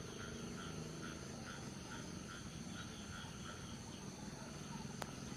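A small animal chirping in a regular rhythm, about two to three short calls a second, over a steady low outdoor hum. A single sharp click comes near the end.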